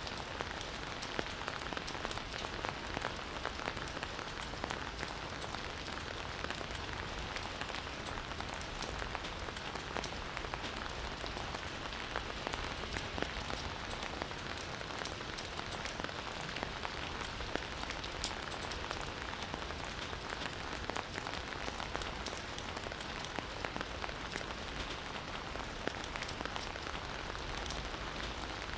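Campfire crackling steadily, with frequent small sharp pops scattered through it.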